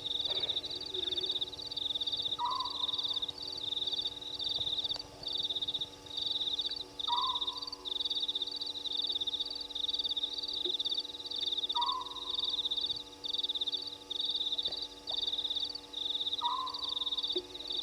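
Night chorus at a waterhole: a loud, high, pulsed trilling from frogs or insects, repeating about once a second, with a short lower call that rises and falls four times, about every four to five seconds.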